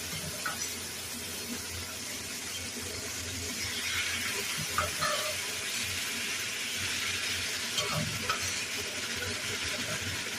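Chicken feet sizzling as they fry in melted margarine with garlic, the sizzle growing a little louder about four seconds in, with a few light knocks of the stirring utensil.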